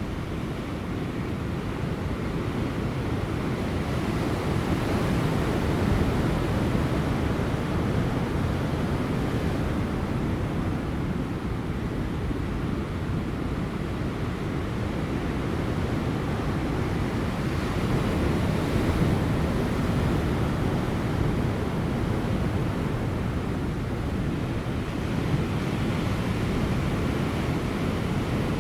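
Large ocean waves breaking on offshore rocks: a continuous deep surf rumble that swells a little several times, with light wind on the microphone.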